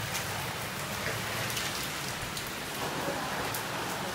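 Rain pouring down steadily, with a little small hail mixed in.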